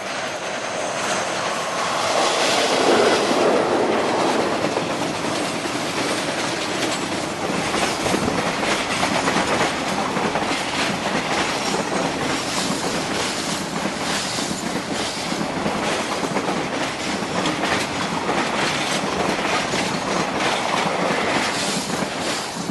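A mixed goods train's wagons rolling past over a bridge, with a continuous rumble and a steady run of wheel clacks over the rail joints. It is loudest a few seconds in and drops away suddenly at the end.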